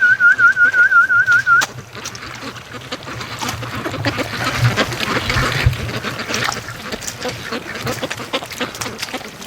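A warbling whistled call, wavering rapidly in pitch, for the first second and a half, then a flock of domestic ducks quacking repeatedly.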